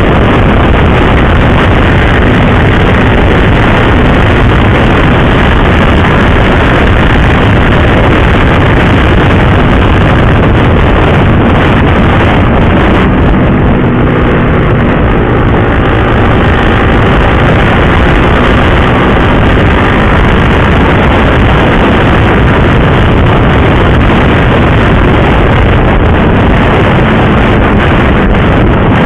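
Motorcycle riding at speed: loud, steady wind rush on the microphone over the running engine, whose pitch rises and falls a little around the middle.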